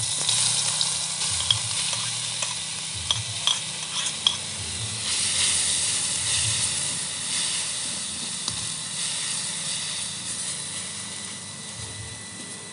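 Pounded spice paste sizzling in a little hot oil in an aluminium wok, starting suddenly as it drops into the pan. A metal spatula clicks and scrapes against the wok several times in the first few seconds.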